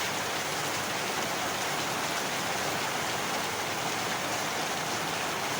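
Steady heavy rain falling, an even hiss of rain on a surface with no thunder.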